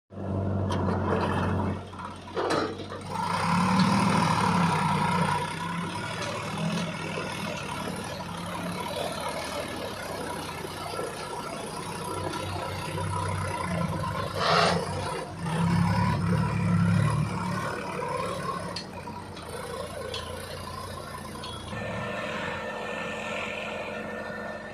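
Heavy diesel engine of an earth-moving machine working under varying load, its pitch and loudness rising and falling, with surges about 4 and 16 seconds in and a few metallic knocks.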